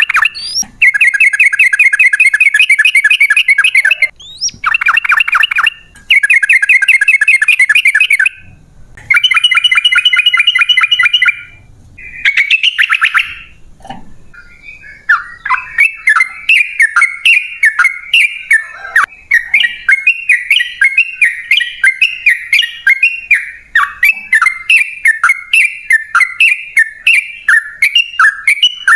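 Yellow-vented bulbul (trucukan) singing loudly. First come several long, fast trills of a few seconds each with short pauses between them, then from about halfway through a run of short chattering notes at about two a second.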